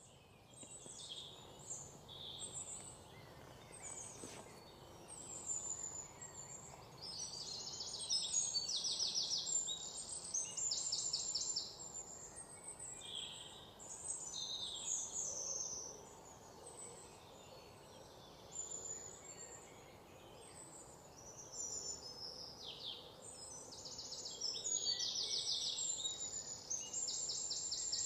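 Several small birds singing and calling: many high chirps and whistles, with loud, fast trilled phrases about eight to twelve seconds in and again near the end.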